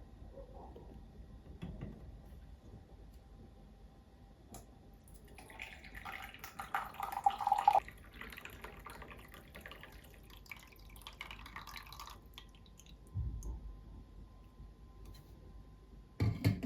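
Water running for several seconds, loudest early on and then tapering off, followed by two soft thumps near the end.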